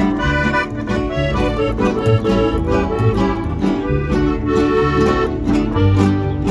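Norteño band music with no singing: an accordion plays the melody over a bouncing bass line and a steady drum beat.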